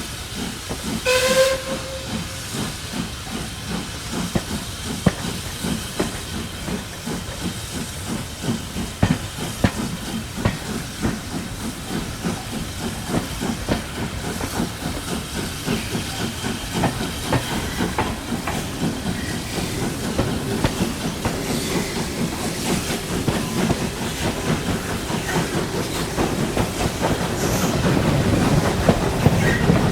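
Steam train hauled by Caledonian Railway 0-4-4T tank locomotive No. 419 on the move: a short steam whistle toot about a second in, then steady rhythmic clatter and steam hiss that grows louder toward the end.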